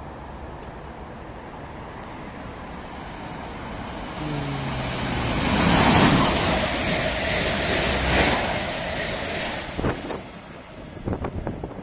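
Class 350 Desiro electric multiple unit passing through the station at speed: wheel and air noise swells as it approaches, is loudest as it goes by about six seconds in, then fades as it pulls away. A brief pitched tone sounds about four seconds in, and wind buffets the microphone near the end.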